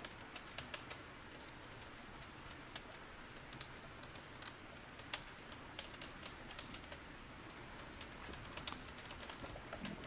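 Burning firewood crackling: irregular sharp pops and snaps over a steady soft hiss.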